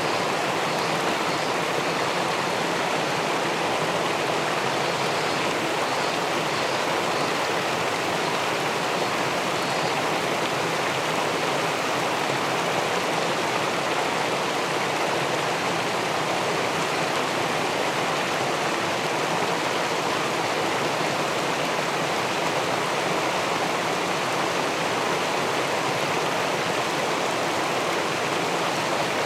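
River water pouring over a small weir and rushing into the pool below, a steady, unbroken rush.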